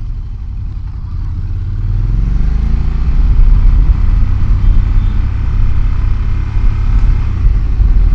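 Honda NC DCT motorcycle's parallel-twin engine accelerating, its pitch rising over the first few seconds and the sound getting louder, then running steady at speed.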